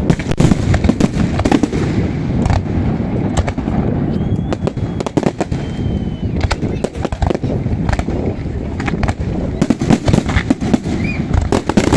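Large fireworks display: a dense, continuous barrage of shell bursts and crackling bangs, many sharp reports in quick irregular succession over a steady low rumble.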